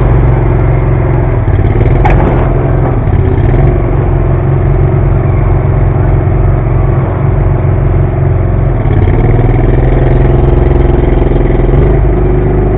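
Garden pulling tractor's engine running loud and steady under load as it drags the weight-transfer sled, heard close from the sled, with a single sharp clank about two seconds in.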